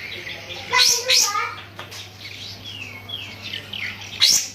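A kapas tembak songbird calling loudly in a series of short whistled and chirping notes, with sharp, high chirps about a second in and again near the end. A steady low hum runs underneath.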